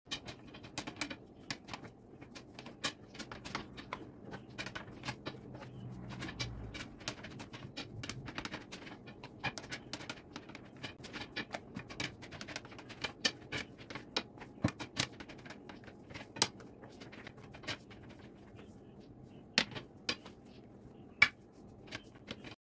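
Scattered light taps and clicks of kitchen work on a counter over a faint steady hum, with a few sharper knocks near the end.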